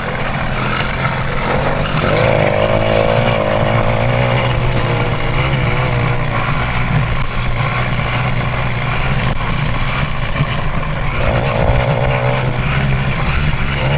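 A stock 66cc two-stroke motorized-bicycle engine running under throttle on the trail, its pitch lifting about two seconds in and again later on.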